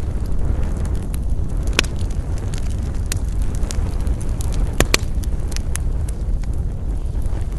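Wood campfire burning, with a steady low rush and scattered sharp crackles and pops, the loudest about two seconds in and a close pair near the middle.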